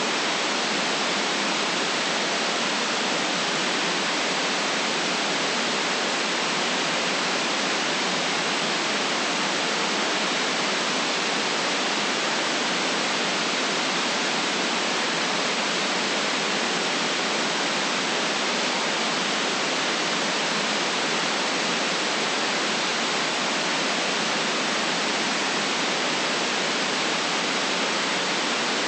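Steady, unchanging white noise: an even hiss with no low bass and a sharp cutoff at the top.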